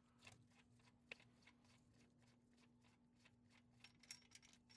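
Near silence: a few faint light clicks and rustles over a steady low hum.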